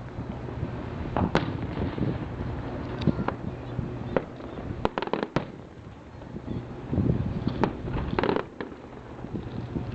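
Fireworks and firecrackers going off: irregular sharp bangs and pops, bunched about halfway through and again near the end, over a steady low rumble.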